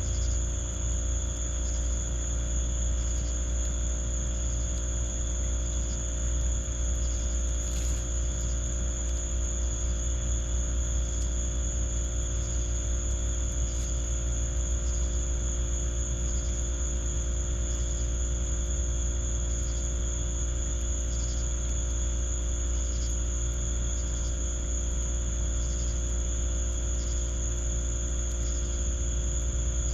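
Crickets trilling steadily at a high pitch, with a fainter insect chirp repeating about every second and a half, over a steady low rumble.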